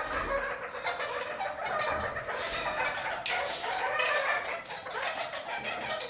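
Red-crowned kakariki (parakeets) chattering: a continuous run of short, quick calls, with one sharper, brighter call about three seconds in.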